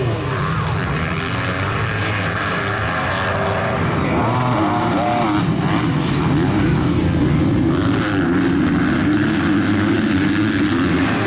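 Motocross motorcycle engines running hard, the revs rising and falling several times near the middle.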